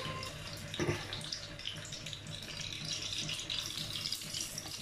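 Pieces of grilled chicken sizzling in a small frying pan as they are laid in: a steady crackling hiss, with a light knock about a second in.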